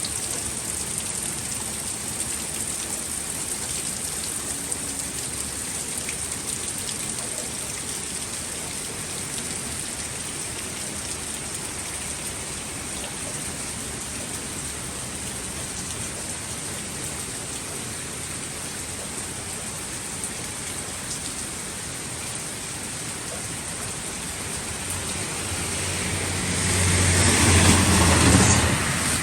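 Steady heavy rain falling, an even rushing hiss. Near the end a louder rushing swell with a low rumble builds up over a few seconds and then drops away.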